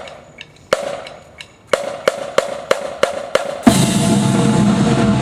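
Drum corps percussion playing: single drum strokes, then a run of evenly spaced strokes about three a second. About three and a half seconds in comes a loud full-ensemble hit with a cymbal crash, which rings on over a held low chord.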